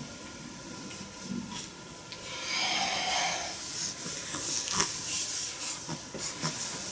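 A newborn baby's snuffly breathing with a soft rustle of bedding, one longer breathy snuffle about halfway through.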